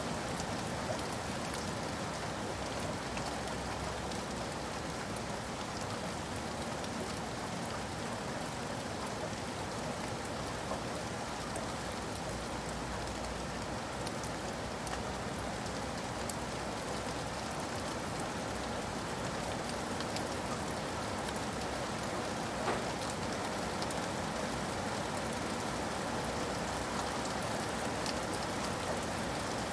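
Steady rain falling, a dense even hiss of drops pattering on a surface, with one slightly louder drop tick near the end.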